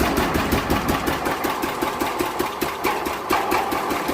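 1981 Case 444 garden tractor's single-cylinder Kohler engine running steadily with an even, rapid firing beat. It has just started now that the cleaned fuel pump is feeding it; the stuck pump had been keeping it from starting.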